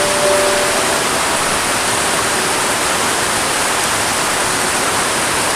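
River water rushing steadily, a loud even hiss with no break.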